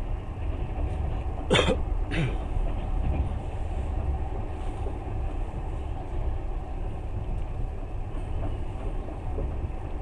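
Steady low rumble of a moving passenger train, heard from inside the carriage, with two short sharp sounds about a second and a half and two seconds in.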